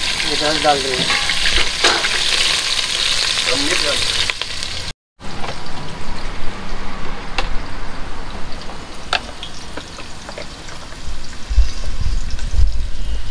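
Food frying in hot mustard oil in a pan on a gas stove, sizzling steadily while a spoon stirs it. The sizzle cuts out abruptly about five seconds in and comes back fainter, with a few sharp clicks of the spoon and some low rumbling near the end.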